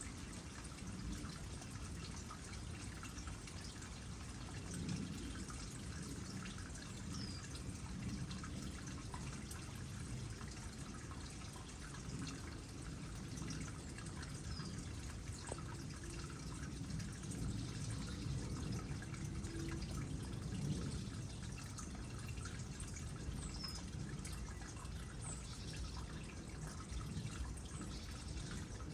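Water trickling into a small pond: a steady low gurgle with scattered drips. A few short high chirps sound over it now and then.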